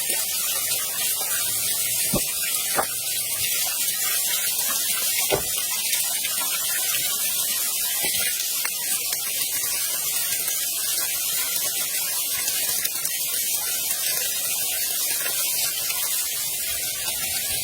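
Steady rushing hiss of falling water from a waterfall, with a few faint knocks in the first half.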